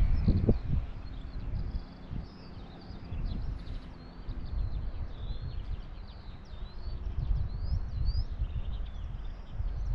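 Small birds chirping and twittering in quick, rising and falling notes, over an irregular low rumble.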